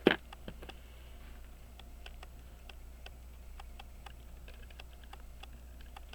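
Small metal tools and pocket watch movement parts clicking and tapping irregularly as parts are fitted into the movement, with one sharper click right at the start. A low steady hum runs underneath.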